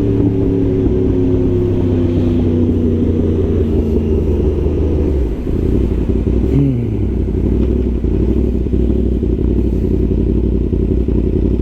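Yamaha R1 sport bike's inline-four engine heard from the rider's seat, its note falling steadily for about five seconds as the bike slows. It then changes to a steady low rumble, with a short dropping tone a second or so later.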